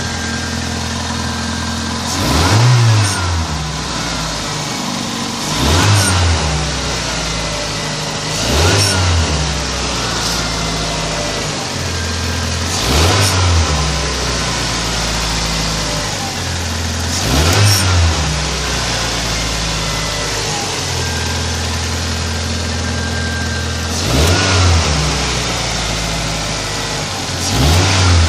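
Mazda 626 GE car engine idling and blipped briefly seven times, each rev rising and falling in pitch. The revs pass through the 1500–2500 rpm range where the owner hears a whistle, its cause not yet known.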